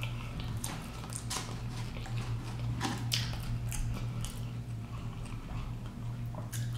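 Close-up biting and chewing of crispy fried food, an egg roll and then a strip of bacon: irregular crisp crunches over a steady low hum.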